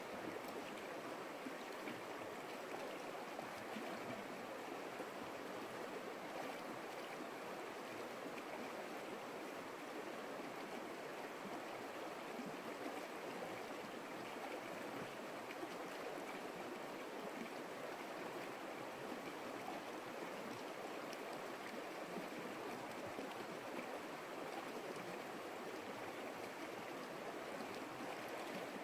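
A creek's water flowing in a steady, unbroken rush.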